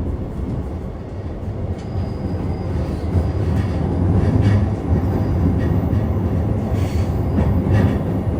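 Running sound inside a JR East E233 series 3000 electric multiple unit: a steady low rumble of wheels on rail and the running gear, getting a little louder about three to four seconds in.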